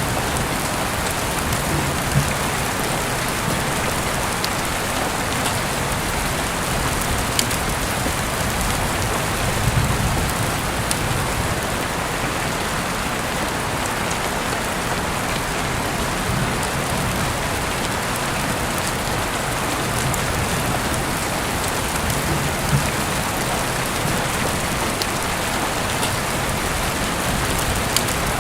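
Heavy rain falling steadily, heard through an open window, with occasional sharp drips of drops striking close by.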